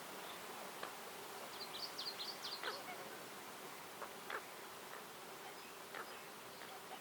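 Woodland ambience: a steady low hum under a soft hiss, with a quick run of high bird chirps about two seconds in and a few scattered single calls after.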